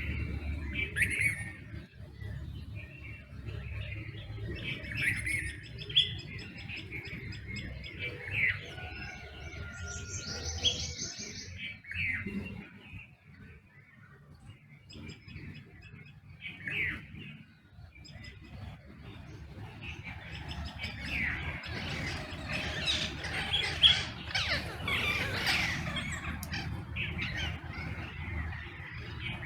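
A mixed chorus of wild birds chirping and calling. Separate short calls come first, then many birds call over one another for several seconds in the last third, over a low steady background rumble.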